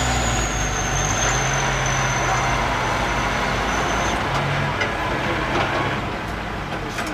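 Six-wheel dump truck's engine running steadily, with a thin high whine over it that stops about four seconds in.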